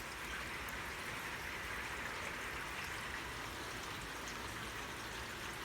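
Light rain falling steadily, an even hiss with a few faint drip ticks.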